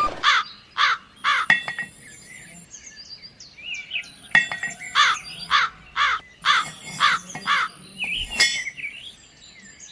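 Bird calling in loud repeated calls: a run of three at the start, then a longer run of about seven, roughly two a second, in the middle. Fainter small-bird chirps fill the gaps.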